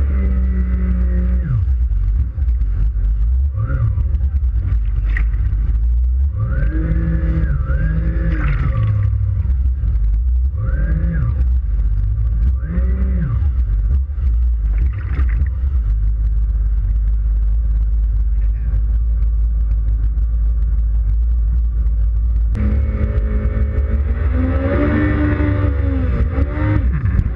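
2005 Yamaha WaveRunner FX Cruiser High Output's engine running over a steady low rumble, its pitch rising and falling again and again as the throttle is worked, with a longer run-up and drop near the end.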